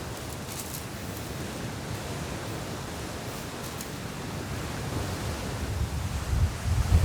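Strong wind and surf on a beach: a steady rushing noise, with wind starting to buffet the microphone and rumble louder over the last couple of seconds.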